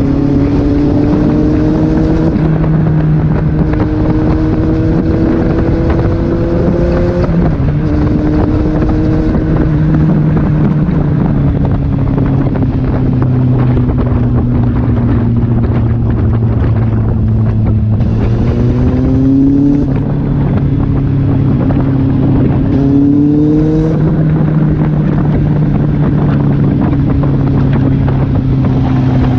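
Kawasaki Z800 inline-four engine running under way, its pitch climbing slowly in gear and dropping at gear changes, with two quick rises in revs that fall away near the end. Wind rushing over the microphone throughout.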